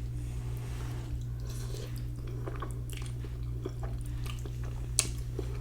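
A person chewing ramen noodles close to the microphone, with irregular wet mouth clicks and smacks, over a steady low hum. A single sharp click sounds about five seconds in.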